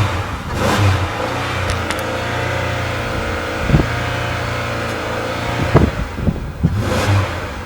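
The 2008 Buick LaCrosse's 3.8-litre pushrod V6 running steadily, surging up briefly about a second in and again near the end. A couple of short knocks come in the middle.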